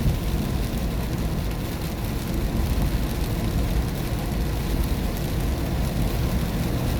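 Steady road noise inside a car driving in the rain: low rumble of engine and tyres with the hiss of wet pavement and rain on the car.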